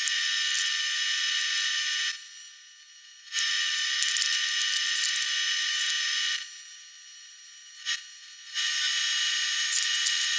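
AC TIG welding arc from a Miller 280DX welder buzzing at a high pitch while building up weld on an aluminium Honda CR500 crankcase. The arc runs in three stretches: it breaks off about two seconds in, strikes again a second later, breaks again after about three seconds, and restarts near the end, with a single click during the second pause.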